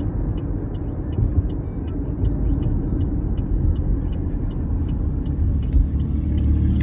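Cabin noise of a Chevy Malibu on the move: a steady low rumble of engine and road, with a faint regular ticking, about three ticks a second.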